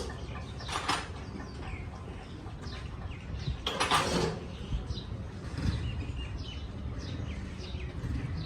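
Mechanical handling noises of workshop engine work: a short clatter about a second in and a louder, longer clatter around four seconds, over a low rumble, with birds chirping.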